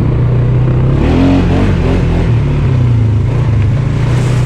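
ATV engine running steadily, with a brief rev about a second in that rises and falls in pitch before settling back.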